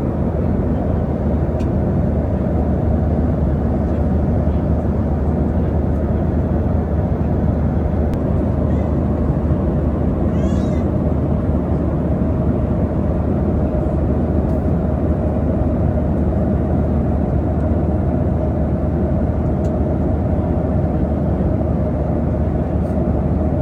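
Steady cabin roar of a Boeing 737-800 in flight: the low drone of its CFM56 engines and the rush of air past the fuselage. A brief, faint, high warbling sound comes about ten seconds in.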